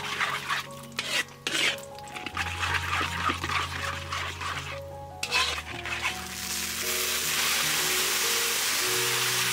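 Red tomato sauce and oil sizzling in a hot metal wok while being stirred, in uneven bursts at first, then turning into a steady, louder sizzle about seven seconds in. Background music with sustained notes plays underneath.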